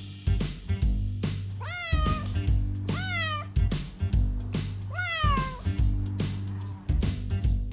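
Domestic cat meowing three times, each meow rising then falling in pitch, over background music with a steady beat.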